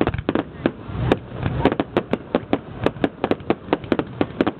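Fireworks going off in a fast, uneven string of sharp bangs, about five or six a second.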